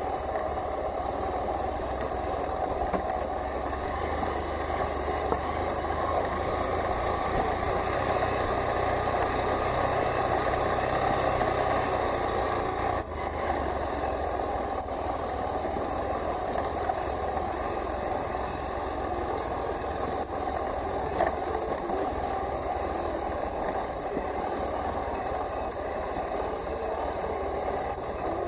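Hero Xpulse 200 4V's single-cylinder engine running steadily while the bike rides an off-road trail, with a few sharp clicks and knocks scattered through.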